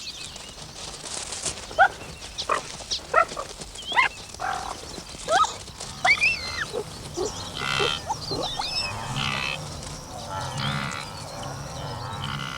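Animal calls: a string of short, sharp cries sweeping up and down in pitch, then from about eight seconds in longer, lower, buzzy bleats.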